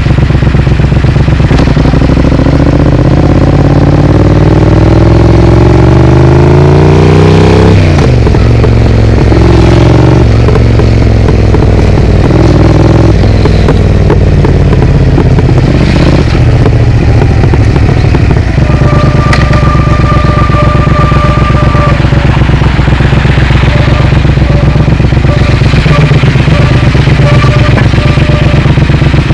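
Triumph Speed Twin parallel-twin engine through an aftermarket Vance & Hines exhaust, pulling hard with rising pitch, dropping at a gearshift about eight seconds in, rising again, then running more steadily. From about two-thirds in, a steady high two-note tone sounds alongside it, held at first and then broken into short pieces.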